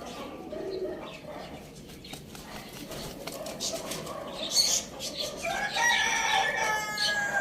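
A rooster crowing near the end: one long call that dips slightly in pitch. Scattered softer bird sounds and rustling come before it.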